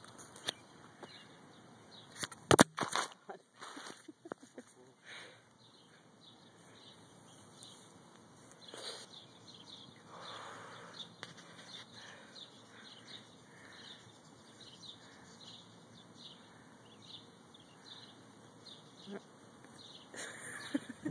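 Small birds chirping faintly and repeatedly in the background, with a brief cluster of loud knocks and bumps about two to three seconds in.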